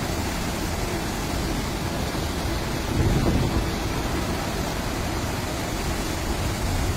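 Steady rush of wind and rough sea, with a louder surge about three seconds in.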